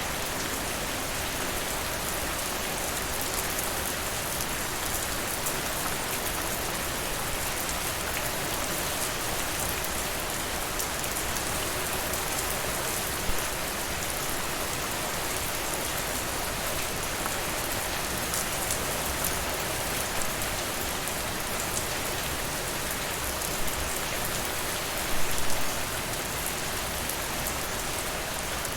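Steady rain falling, with small crackles from a wood fire; a sharper pop about halfway and a short cluster of louder pops near the end.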